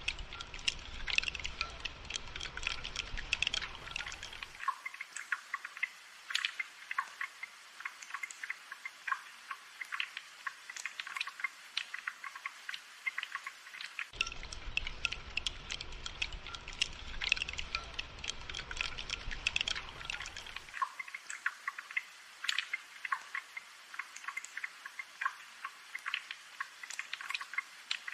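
Rain falling as many close, sharp drips and ticks, like drops landing on hard surfaces. A low rumble underneath cuts out abruptly about four and a half seconds in, returns around fourteen seconds, and cuts out again near twenty-one seconds.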